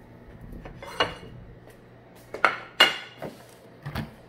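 Dishes and utensils clinking and knocking: a sharp clink about a second in, two louder clinks in quick succession near the middle, then a few softer knocks.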